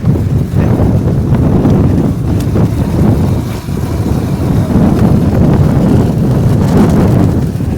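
Wind buffeting the microphone: a loud, gusting low rumble with no steady engine or motor tone.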